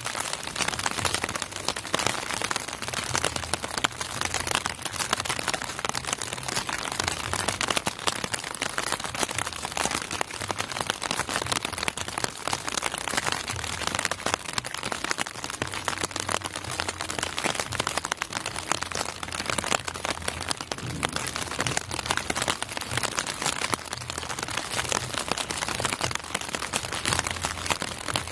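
Steady rain falling, a dense crackling patter of raindrops.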